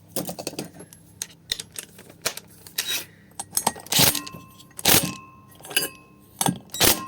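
Metal parts and tools clinking and knocking against each other during small-engine assembly, a string of irregular sharp strikes, some followed by a brief metallic ring.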